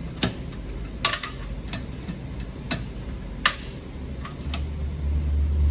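Tire-mounting work on an ATV rim: about seven sharp clicks at uneven intervals, with a low steady hum coming in about four seconds in.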